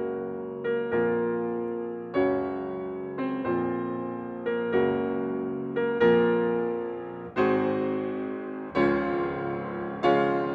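Slow solo piano music: chords struck about once a second, each ringing out and fading before the next.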